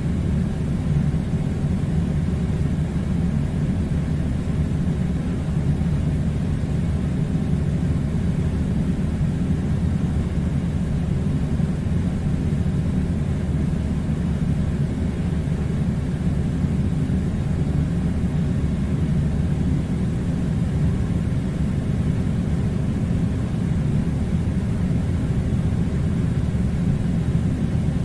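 Steady low rumbling drone with no breaks or changes.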